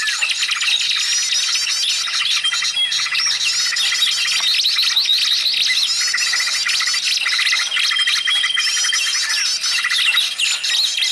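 A dense, continuous chorus of many small birds' rapid chirps, trills, whistles and squawks overlapping one another: a bird-trapping lure recording that compiles many species' calls.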